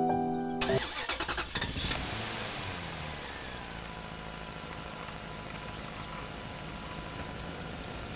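Piano music cuts off under a second in. A car engine then cranks in quick pulses, catches at about two seconds and settles into a steady idle.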